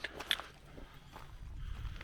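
Footsteps of hikers walking on a trail, with a few sharp steps near the start.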